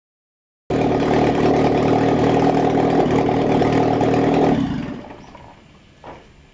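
1972 Opel Manta engine running steadily with a suspect noise whose origin the owner cannot place; it stops about four seconds in and fades away, followed by a short knock near the end.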